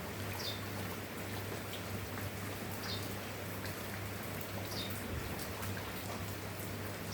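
Steady rain falling, with scattered individual drop taps over an even hiss. A low steady hum runs underneath, and short high chirps sound three times, about two seconds apart.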